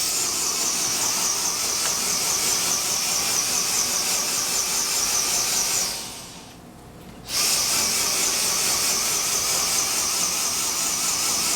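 Dyson DC35 Digital Slim cordless stick vacuum running with a high-pitched whine that warbles up and down a few times a second: the pulsating that signals a full dirt cup and clogged airflow. The motor cuts off about six seconds in and starts again about a second later.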